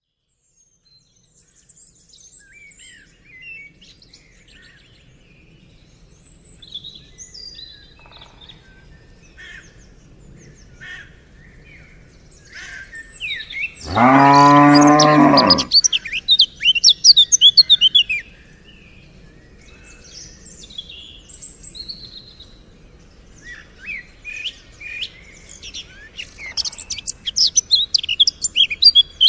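Birds chirping and twittering, with a cow mooing once about halfway through: one loud, steady, low call of about two seconds. The chirping grows thick just after the moo and again near the end.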